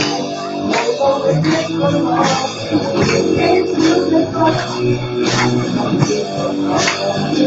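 Live band music led by guitar, with sustained chords over a steady beat about every three-quarters of a second.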